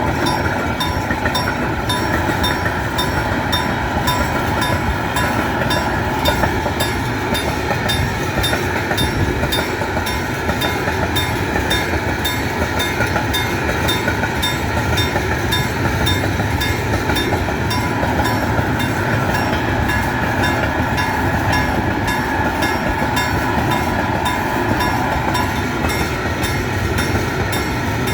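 Freight train wagons rolling past at a steady speed: a continuous rumble of steel wheels on rail, with a regular clicking rhythm.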